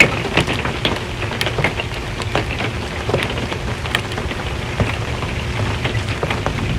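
Rain falling on a metal RV roof: a steady hiss with many irregular, sharp taps of individual drops striking the metal.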